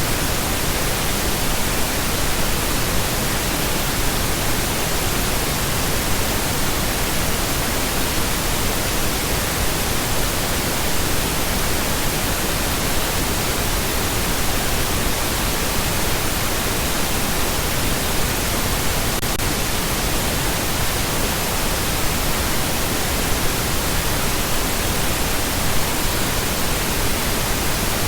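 Continuous pink noise: an even, steady hiss spread across all pitches, with no changes or interruptions.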